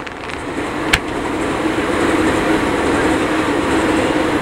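A single aerial firework shell bursting with a sharp bang about a second in, over a steady background rumble that slowly grows louder.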